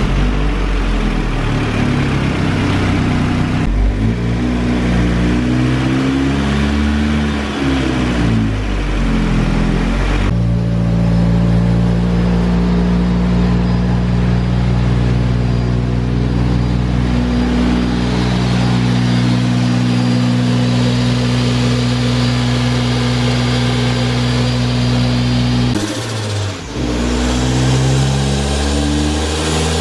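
Turbocharged Mazda MX-5 four-cylinder engine running under tuning: revved up and down at first, then held at a steady speed for about fifteen seconds, breaking off briefly before revving again.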